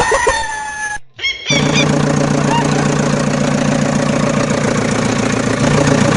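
A rooster-like crow ending, a short break about a second in, then a steady engine-like running sound that carries on to the end.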